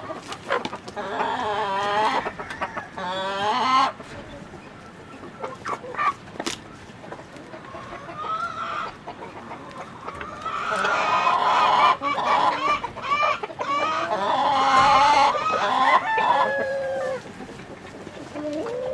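Chickens clucking, in two loud spells of calling with quieter clucking between, and a few sharp clicks.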